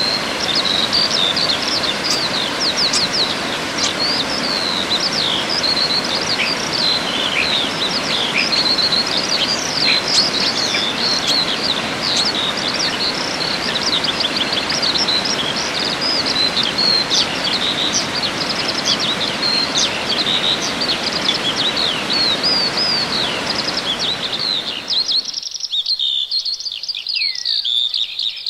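Many small songbirds chirping and singing at once in quick, high, overlapping notes and trills. They sing over a steady background hiss that cuts off suddenly about 25 seconds in, leaving the birdsong on its own.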